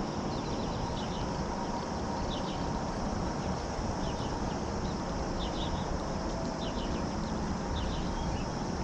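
Small birds chirping in short clusters about once a second over a steady outdoor hiss.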